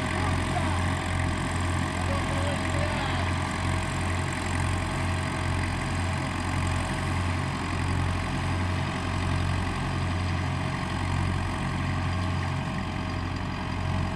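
Tractor engine running steadily at a constant speed, with a deep hum and no revving.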